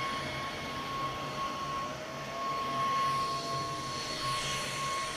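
Cordless battery-powered vacuum cleaner running steadily, a constant motor whine over rushing air.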